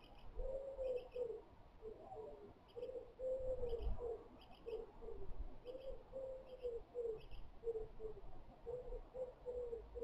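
A bird calling in a long series of short, low notes, one or two a second, some falling slightly in pitch. Fainter high double chirps sound above them.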